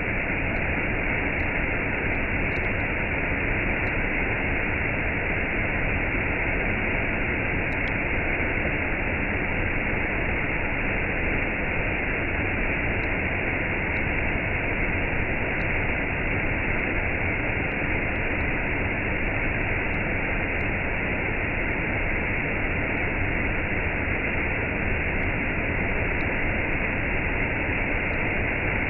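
Waterfall cascade: water falling and rushing in a steady, unbroken noise.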